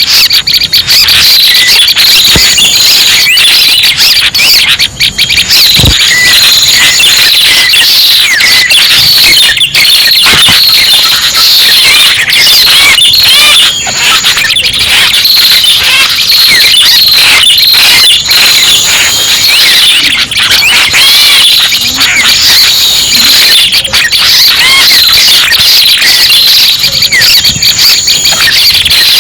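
Bird-trapping lure recording of the red-headed prenjak: a dense, continuous chatter of high, squeaky chirps and quick twittering calls, with thin high whistled notes coming and going every few seconds.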